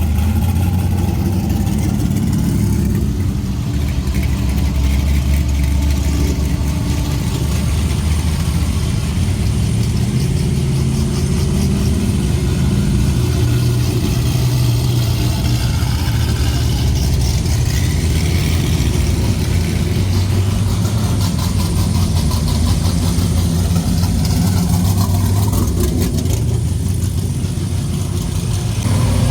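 Car engine running at low, fairly steady revs, with slight slow rises and falls in pitch.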